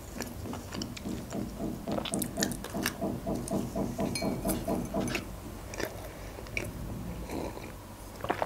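A person chewing soft doughnut with small wet mouth clicks, with a fast, even pulsing for a few seconds in the middle. Near the end there is a sip from a mug.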